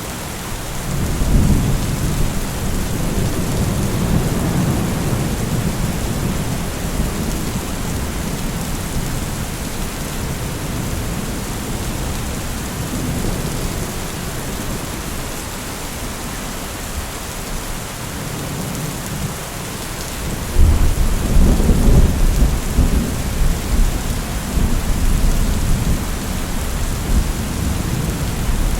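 Steady heavy rain with rolling thunder: a rumble swells in the first few seconds, and a louder, longer roll of thunder breaks about twenty seconds in and rumbles on to the end.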